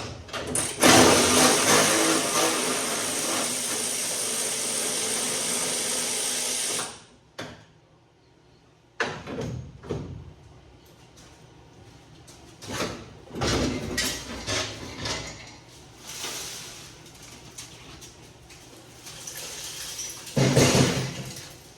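A pneumatic tool runs loudly for about six seconds and then cuts off suddenly, taking out a fender bolt on a stripped car body. Scattered metal clanks and knocks follow as parts are handled.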